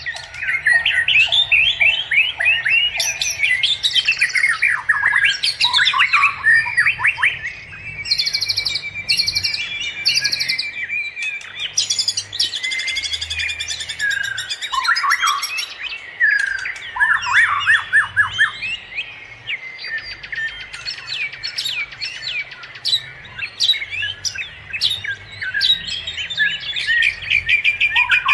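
Several small birds chirping and calling, many short notes overlapping with no pause.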